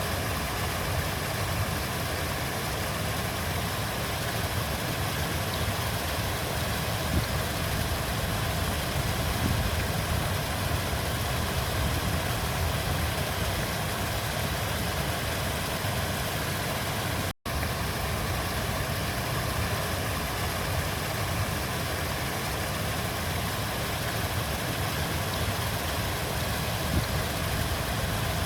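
Steady rush of a flowing river, an even wash of water noise, cutting out for an instant about two-thirds of the way through.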